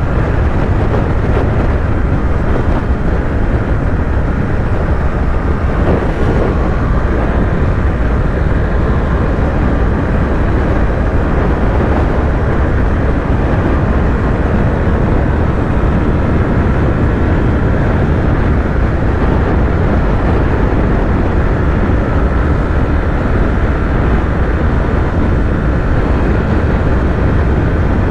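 Yamaha YZF-R3's parallel-twin engine running steadily while cruising at highway speed, with a steady low rumble.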